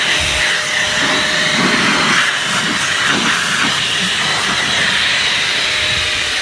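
Steady, loud spraying hiss, the sound of a jet of water or air during engine-bay cleaning.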